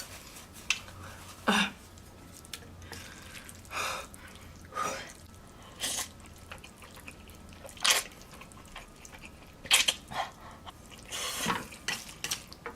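Short, wet mouth and nose sounds from a person eating, coming irregularly about eight times.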